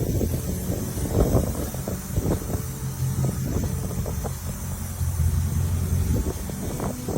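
A car engine running, its low hum rising and falling in level.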